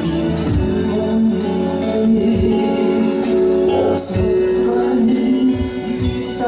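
Live band music with guitar over a steady beat, with long held notes.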